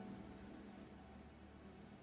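Near silence: faint hiss with a trace of soft background music, in a pause between spoken sentences.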